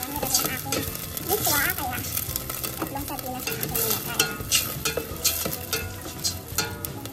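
Sardines in tomato sauce with onion and garlic sizzling in oil in a stainless steel pot, stirred with a plastic ladle that scrapes and taps against the pot's sides and bottom again and again.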